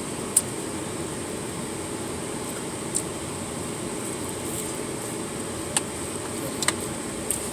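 Steady blowing hum inside a car, typical of the air-conditioning fan running, with a few faint clicks scattered through it.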